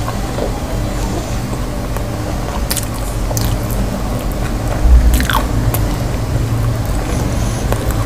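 A man chewing a mouthful of aloo gobi (soft potato and cauliflower curry) with roti close to the microphone: moist, smacking mouth sounds with small clicks, over a steady low hum. A dull thump about five seconds in.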